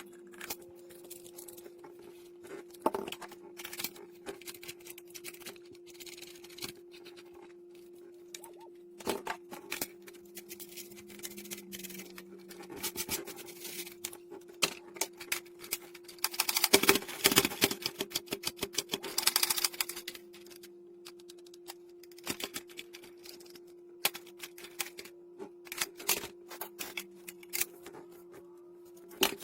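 Electric dog grooming clipper running with a steady hum, with irregular clicking and crackling over it that is densest a little past halfway.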